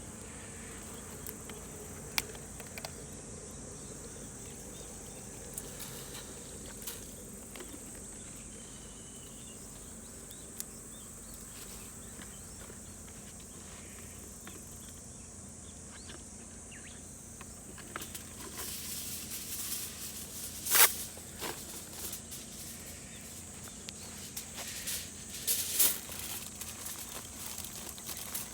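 Insects give a steady, high-pitched chirring over the whole stretch, with small scattered clicks. In the last third, handling noises come in, including two sharp knocks a few seconds apart.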